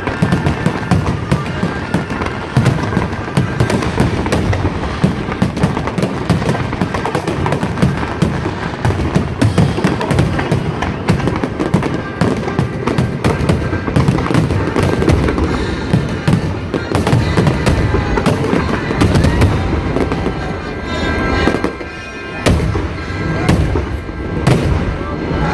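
Fireworks display going off in quick succession: a dense, unbroken run of bangs and crackles for the whole stretch, with a brief lull about three quarters of the way through.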